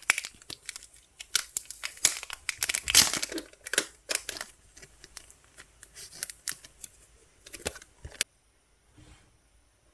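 Album packaging being torn open and crinkled by hand: a busy run of sharp crackles and rustles that stops about eight seconds in.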